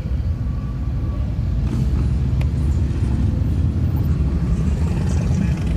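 Low, steady rumble of motorcycle engines and street traffic, heard through the open windows of a moving minivan.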